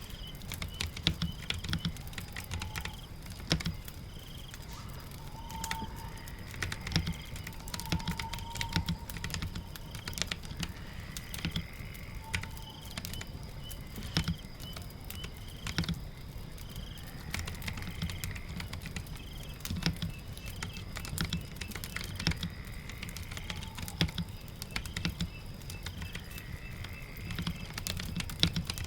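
Typing on a keyboard: irregular clicks of the keys at an uneven pace, over a steady low background rumble. A faint short rising chirp recurs every few seconds.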